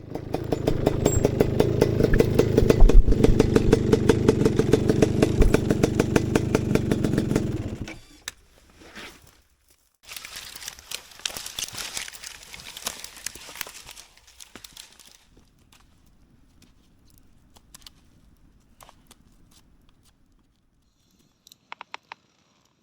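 Enduro motorcycle engine running with a rapid, even pulse, cutting off abruptly about eight seconds in. A quieter stretch of clattering noise and a few scattered clicks follow.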